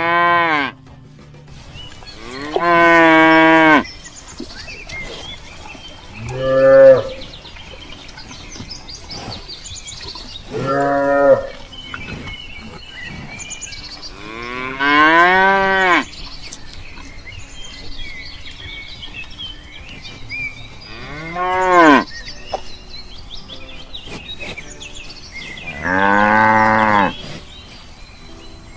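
Cows mooing: about seven separate calls a few seconds apart, each lasting a second or so, several bending down in pitch at the end.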